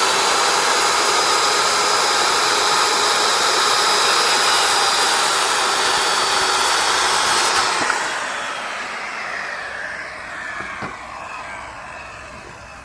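Corded electric circular saw starts up and runs at full speed with a steady high whine for about eight seconds while cutting a 2x4, then is switched off and winds down, its whine falling in pitch as the blade coasts to a stop.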